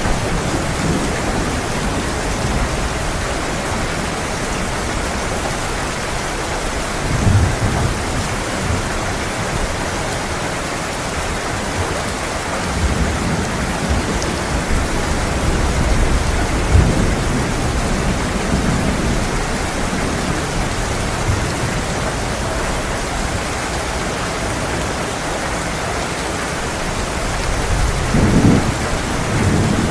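Heavy rain pouring steadily, with thunder rolling in low rumbles several times, the strongest about a quarter of the way in, through the middle, and near the end.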